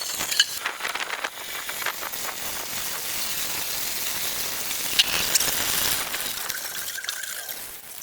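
Fuel gushing steadily out of a tractor's disconnected fuel line into a container, a rushing, splashing pour that tails off near the end.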